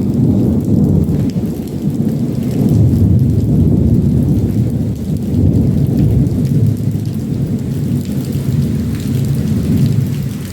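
Thunder rumbling on and on through a thunderstorm, with heavy rain pouring down.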